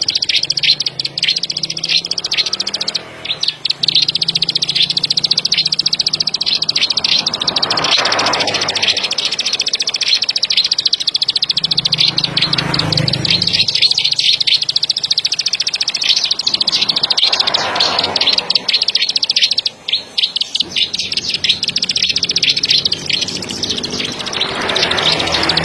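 Ciblek sawah (ciblek padi), a prinia of rice fields, singing continuously: a fast, high, clicking trill that runs on almost without a break, with a few short pauses.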